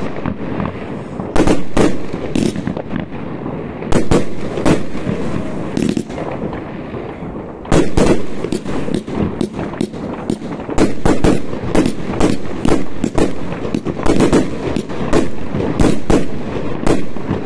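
Consumer fireworks going off in a continuous barrage: many sharp bangs and crackles at irregular intervals over a constant rumble, growing denser about halfway through.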